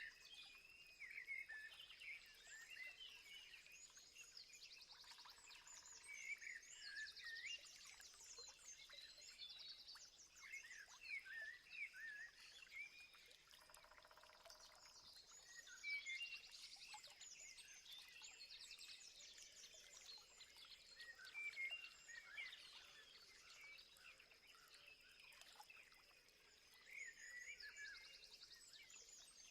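Several wild birds singing and chirping together, faint: quick trills and short whistled notes overlapping throughout, over a thin steady high-pitched tone.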